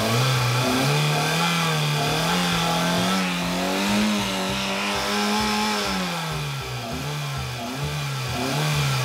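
Suzuki Baleno's 1.6-litre four-cylinder 16-valve SOHC petrol engine raced by hand from idle: it climbs in about a second, holds high for several seconds, drops back, then gets a shorter blip near the end. Even at full throttle it runs without any particular noise, which the mechanic takes as a sign the engine is sound.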